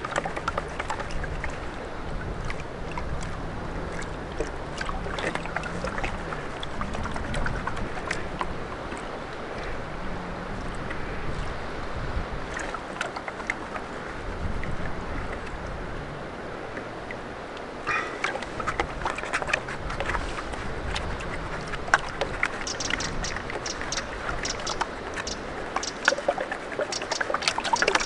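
Water sloshing as river gravel is worked for gold, with small stones clicking and rattling against each other throughout; the clicking gets busier and sharper about two-thirds of the way in.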